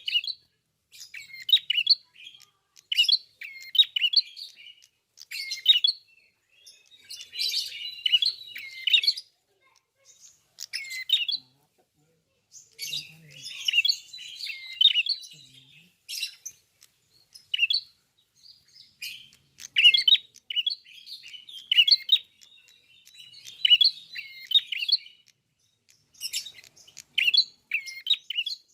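Ashy tailorbird (prenjak kepala merah, klawu) singing continuously, high quick chirped phrases with hooked notes repeated every second or two with brief pauses.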